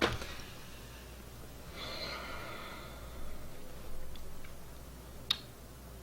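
A person sighing, a long breath out about two seconds in, with a sharp knock at the very start and a short click near the end.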